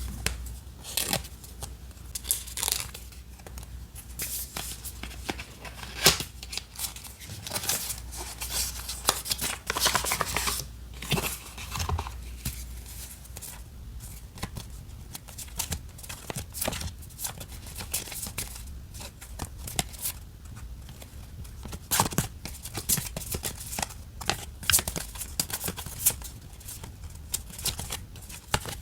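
Paper crafting at a desk: scissors snipping paper in irregular cuts, with short rustles and crinkles of paper and sticker sheets being handled.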